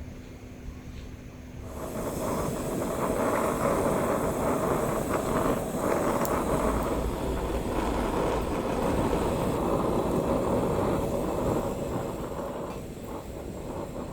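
A steady rushing noise that starts suddenly about two seconds in and eases near the end.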